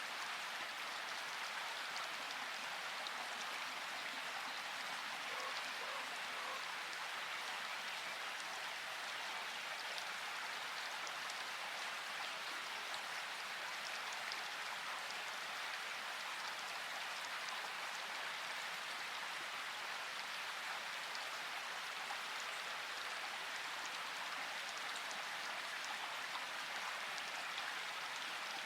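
Steady rainfall, an even hiss with fine scattered drop ticks.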